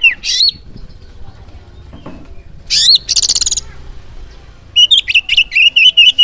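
Oriental magpie-robin song: sharp whistled notes, then a rising sweep and a harsh fast rattle about halfway through, then a rapid run of short, high, sharp notes near the end.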